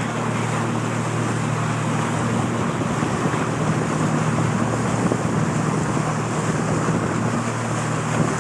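Motorboat engine running steadily at speed, with the rush of water along the hull and wind buffeting the microphone.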